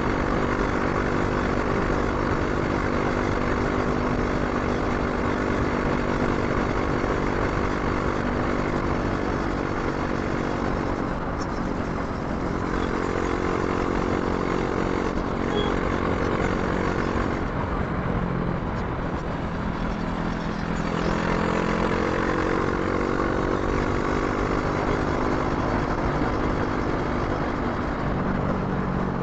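Brixton Crossfire 500's parallel-twin engine running under way while riding, its pitch dropping about a third of the way in and again near the end and climbing in between as the revs change, over steady wind and road noise.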